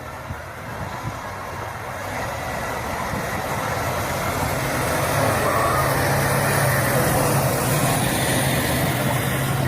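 A large vehicle's engine running with a steady low hum, growing louder over the first several seconds and then holding.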